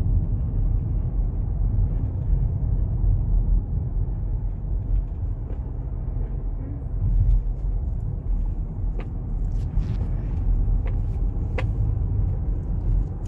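Steady low rumble of a car driving along the road, engine and tyre noise heard from inside the cabin, with a few faint clicks in the second half.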